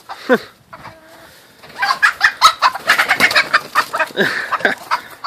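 Chickens clucking and squawking: a falling squawk and a short held call, then from about two seconds in a loud, busy flurry of squawks and clucks.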